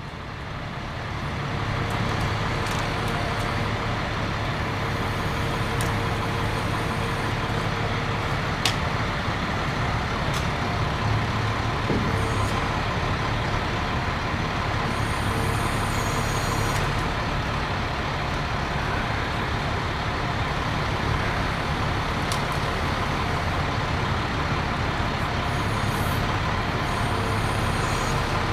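Bucket truck's engine running steadily to drive the boom while it lifts and moves a dead tree. It builds over the first couple of seconds and then holds level, with a few faint clicks and a sharp tick about nine seconds in.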